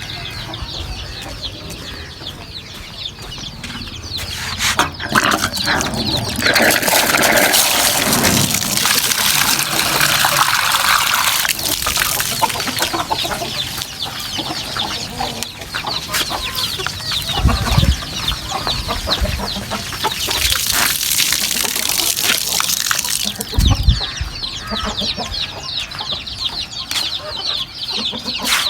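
Domestic chickens clucking and cheeping throughout. Water pours twice, for several seconds about a quarter of the way in and again past the middle, as their drinking water is changed, with a couple of dull knocks in between.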